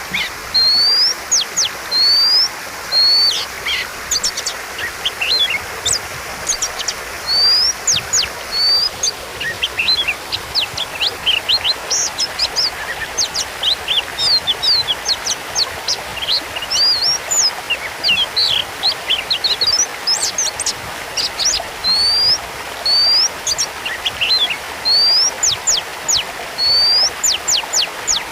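Oriental magpie-robin (kacer) singing continuously: short rising whistled notes repeated about once a second in runs, alternating with fast, sharp chattering phrases.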